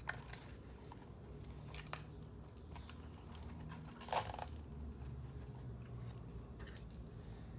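Hands working on the plastic parts of an RC car: a few light clicks and a louder, brief plastic clatter about four seconds in, over a low steady hum.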